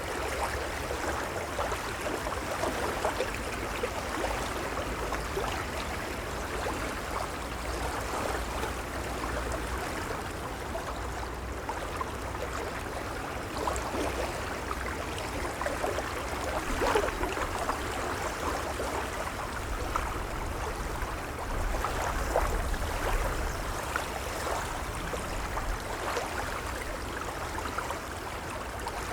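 Gentle waves lapping at the water's edge: a steady wash of water with many small splashes and trickles running through it, over a low rumble.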